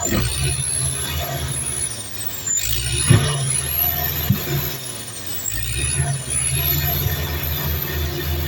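Heavy diesel earthmoving machinery working, its engine drone rising and falling with load, over a high whine that glides up and down. Two sharp knocks come about three and four seconds in.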